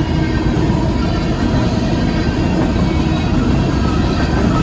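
Loaded cars of a Union Pacific coal train rolling past a grade crossing: a loud, steady noise of steel wheels running over the rails.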